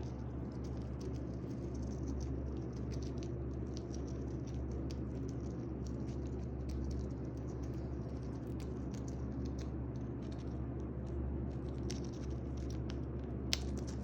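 Eclectus parrot nibbling and crunching a treat with its beak: a steady run of small crackling clicks, with one sharper click near the end, over a steady low hum.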